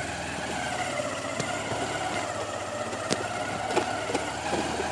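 A vehicle engine running steadily at low revs, with a few light clicks over it.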